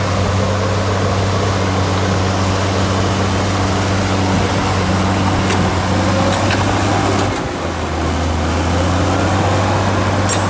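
Heavy diesel engine of earthmoving equipment running steadily; its note dips and shifts lower about seven seconds in.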